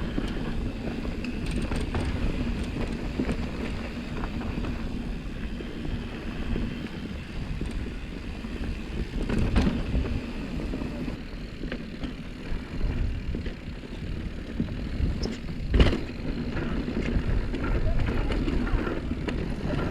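Mountain bike riding a dusty dirt trail: tyres rolling over dirt, the bike rattling over small bumps, and wind buffeting the microphone, with two sharp knocks, one about halfway through and one near the three-quarter mark.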